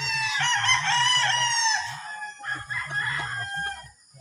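Roosters crowing: one long crow ends about two seconds in, and another follows about half a second later.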